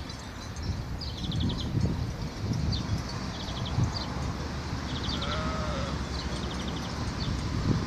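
Sheep bleating: one drawn-out, wavering bleat about five seconds in. A bird repeats a short high call with a quick trill about once a second over low rumbling noise.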